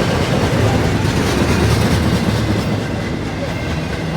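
A passing freight train: railcar wheels clacking over rail joints with a steady rumble.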